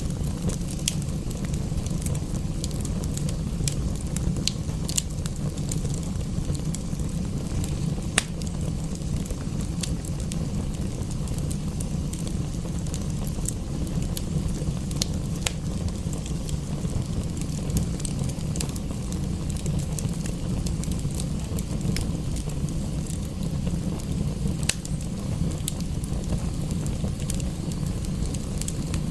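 Wood fire in a fireplace crackling, with scattered sharp pops, over a steady low rumble.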